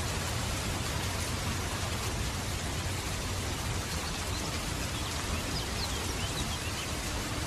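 Steady rain falling, an even hiss with a low rumble underneath, and a few faint high chirps about two-thirds of the way through.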